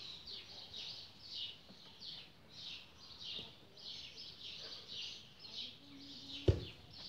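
Small birds chirping over and over in quick short calls, with a single sharp knock about six and a half seconds in.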